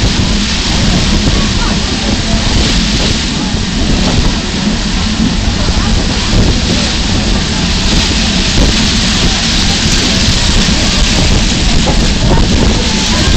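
Steady, loud rushing and rumbling noise of a train on the move.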